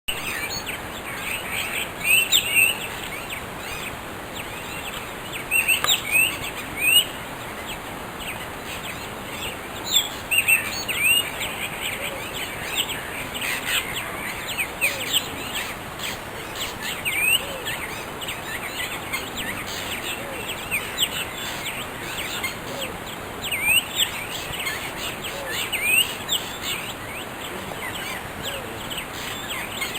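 Morning chorus of several wild African birds, many short chirping, swooping calls overlapping, with louder call phrases every few seconds over a steady background hiss.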